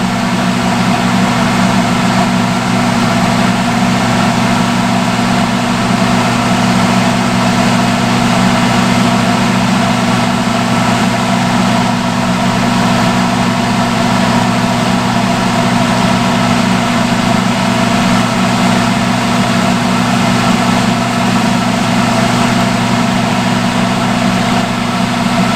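Salon hood hair dryer running: a steady blower drone with a constant motor hum, unchanging throughout.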